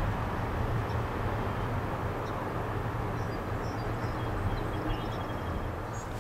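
Canadian National test train with its SD70M-2 diesel locomotive running steadily: a constant low rumble with rolling noise.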